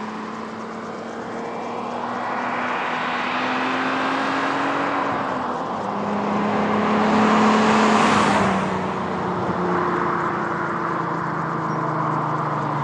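VW Jetta's 12-valve VR6 engine through a Borla non-resonated cat-back exhaust, running under acceleration with its pitch climbing. About five seconds in the pitch drops suddenly, as at a gear change. The sound is loudest around eight seconds in, then eases to a steadier, slowly falling pitch.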